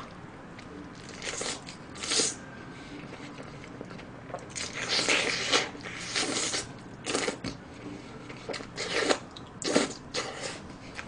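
Close-miked biting and chewing of a fried chicken burger: a string of irregular mouth noises, louder at a few bites.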